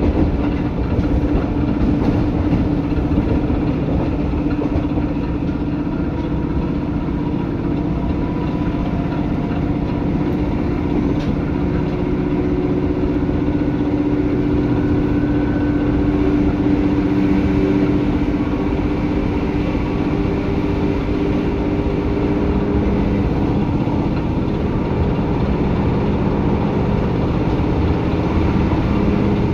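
Seibu 2000 series electric commuter train heard from inside the car, recorded above the underfloor HB-2000 equipment: a steady rumble with a droning hum whose pitch drifts slightly.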